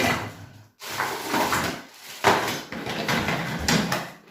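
Plastic vacuum cleaner parts being handled and fitted together: irregular clattering and rustling with a few sharp knocks, the loudest a little over two seconds in.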